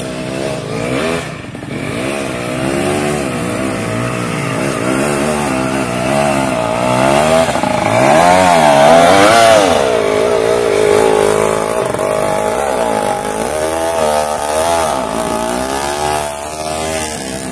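Yamaha DT125 two-stroke single-cylinder dirt bike engine revving up and down as the throttle is opened and closed over and over, loudest about eight to ten seconds in.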